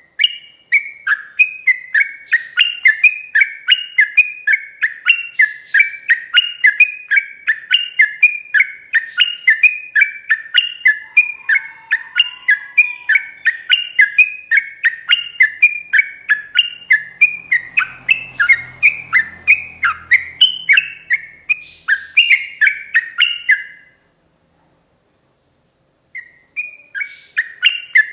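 Yellow-vented bulbul (trucuk) singing a long, fast, unbroken run of repeated chirping notes, several a second. The song stops for about two seconds near the end, then starts again.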